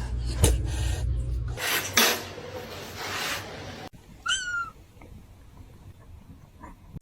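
A few scuffing, rubbing noises, then a cat gives one short meow about four seconds in.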